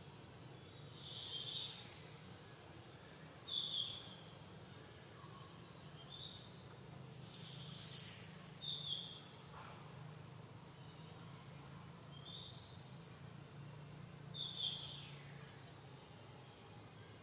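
Birds calling in the forest: short, high chirps that fall in pitch, coming in little groups every few seconds, the loudest a few seconds in. A faint steady background hum runs under them.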